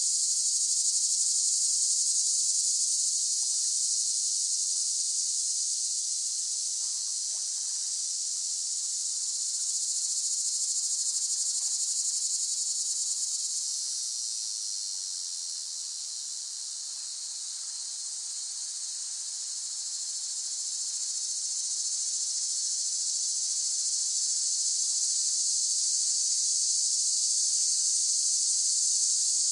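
Cicadas singing in a dense, continuous high-pitched drone that swells and fades slowly, softest about halfway through.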